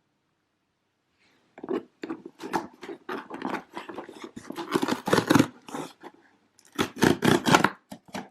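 Packaging of a parcel being opened: two spells of dense rustling and crackling, the first lasting about four seconds, then a short pause, then a second shorter spell near the end.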